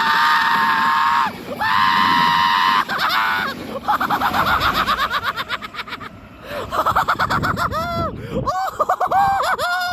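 A man screeching in a high falsetto. Two long held screeches come first, then a stretch of rapid choppy yelps, then wavering, warbling screeches near the end.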